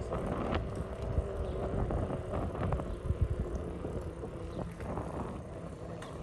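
Bicycle being ridden along a road: steady tyre rumble and wind on the microphone, with a few short knocks and rattles, most of them about halfway through.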